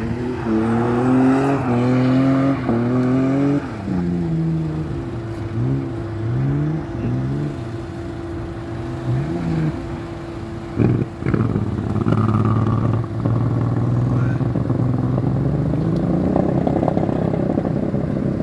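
A BMW drift car's engine revving hard: its note climbs for the first few seconds, drops suddenly, then swings up and down again and again as the throttle is worked through the drift. A single sharp bang comes about eleven seconds in, after which the engine holds a steadier note.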